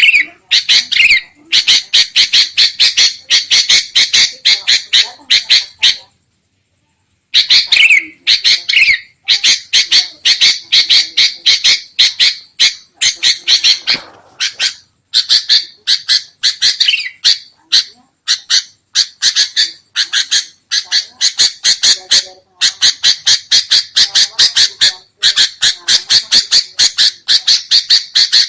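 Sooty-headed bulbuls giving a noisy scolding chatter: long runs of rapid, harsh notes, broken by a pause of about a second roughly six seconds in. This agitated calling is the kind used to lure other bulbuls.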